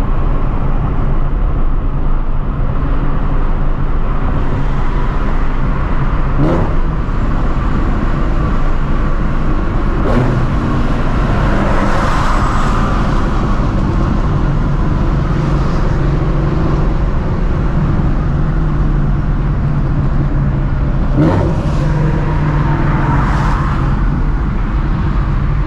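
Procharged Shelby GT350's 5.2-litre flat-plane-crank V8 running steadily while cruising, heard with road noise from inside the car, with a few brief sharp sounds along the way.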